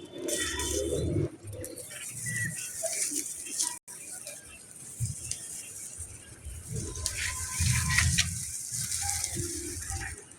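Birds calling in short, scattered notes over a background of noise and low bumps, with a brief dropout about four seconds in.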